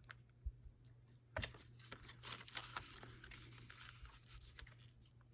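Faint rustling and handling of paper and card, with a couple of light taps, the sharpest about a second and a half in.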